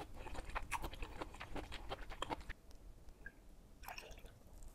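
Close-miked chewing of stir-fried udon noodles and vegetables: quick, wet mouth clicks for about two and a half seconds, then quieter. Near the end, soju is poured briefly from a bottle into a small glass.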